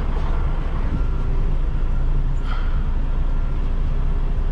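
2021 Freightliner Cascadia semi truck's diesel engine running steadily at low speed while backing up a trailer; a constant low rumble.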